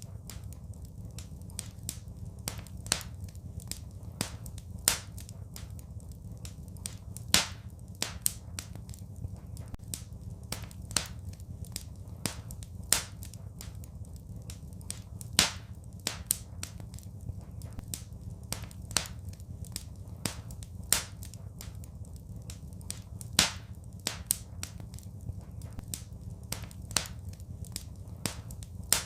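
Wood fire crackling in a fireplace: sharp pops and snaps, a few louder ones every couple of seconds, over a steady low rumble of the flames.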